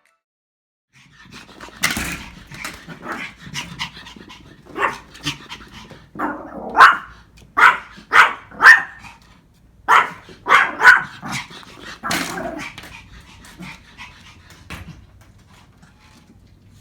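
Pomeranian puppy barking in a rapid run of sharp yaps, starting about two seconds in. The yaps are loudest in the middle, then fade toward the end.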